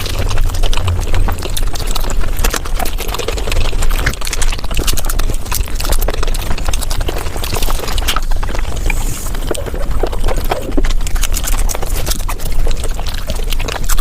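Mouth sounds of eating palak paneer, sped up five times: a dense, rapid run of wet chewing and smacking clicks.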